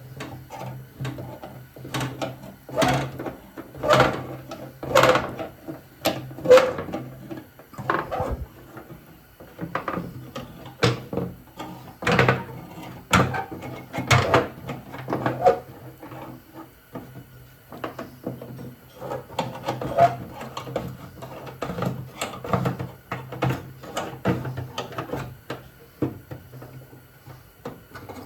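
Irregular knocks, clicks and rattles of hand work on metal car parts, with a steady low hum underneath.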